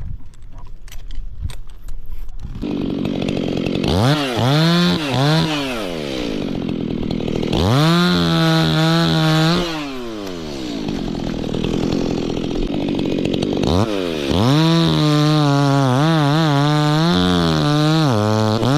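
A two-stroke Stihl chainsaw comes in running low about three seconds in, then is revved up sharply twice. Near the end it is held at high revs with the pitch wavering up and down.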